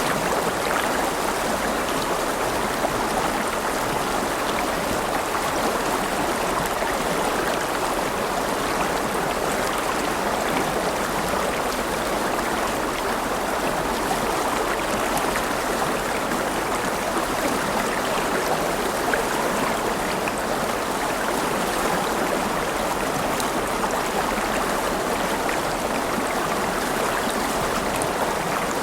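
River water flowing steadily over stones, a continuous rushing and babbling with no breaks.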